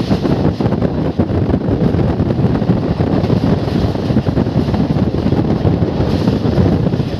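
Wind rushing over the microphone held out of a moving passenger train, over the train's steady running noise on the rails.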